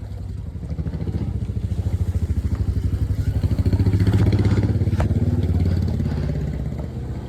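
Royal Enfield Hunter 350's single-cylinder engine running with a fast, even thump, getting louder to a peak about four seconds in and then easing off as the motorcycle pulls away.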